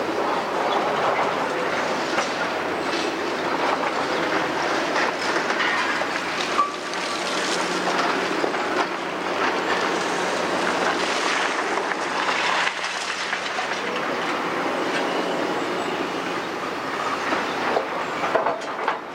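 Caterpillar 345D tracked excavator working demolition rubble: a continuous clatter of knocks and scrapes from metal and concrete debris over the running machine.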